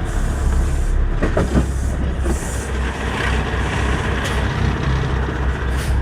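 Semi-truck diesel engine running steadily at low speed while the truck is being maneuvered to park, with a few brief knocks about a second in.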